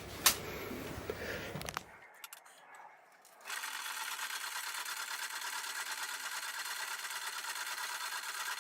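Light clinks of metal being handled, then about three and a half seconds in a power hacksaw machine starts a steady, evenly pulsing run, its blade stroking back and forth through a metal piece.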